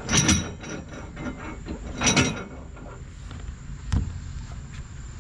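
Two short scraping rattles about two seconds apart, then a single sharp knock near the end: a shipping crate and the parts inside it being handled.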